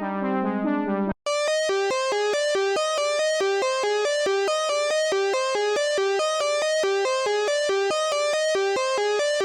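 u-he Podolski software synthesizer playing factory presets. A darker sustained chord sound cuts off about a second in. After a brief gap, a bright, buzzy sequenced pattern begins, alternating between two notes at about four notes a second.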